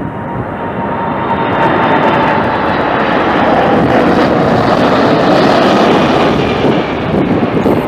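Jet airliner flying past, its engine noise swelling to a peak about five seconds in and then easing, with a whine that falls slightly in pitch.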